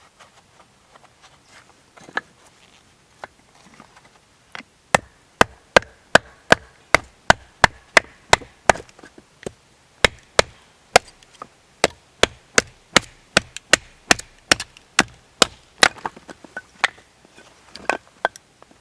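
Repeated sharp chopping strikes on wood: a few scattered knocks, then a steady run at about two to three strikes a second for some ten seconds, slowing to a few spaced strikes near the end.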